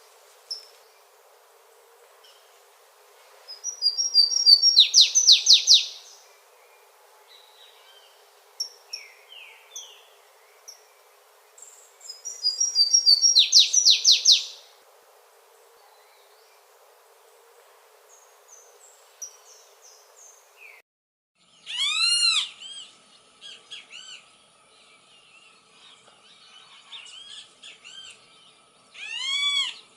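Songbirds singing: two loud, fast trilled song phrases several seconds apart, then a different bird giving loud arched whistled notes twice, with softer chirps between.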